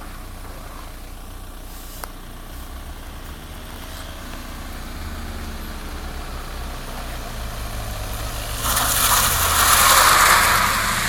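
A car's engine rumbling and growing steadily louder as it approaches. About nine seconds in, a loud rushing hiss from tyres sliding across wet tarmac takes over and peaks about a second later.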